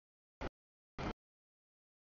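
Passing double-stack container train's rumble heard only in two brief snatches, each under a fifth of a second, with dead silence between: the audio drops in and out.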